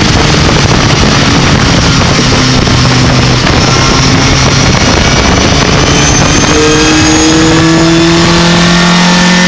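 Racing pickup truck engine running hard under loud engine and road noise, its pitch climbing steadily over the last few seconds as it accelerates.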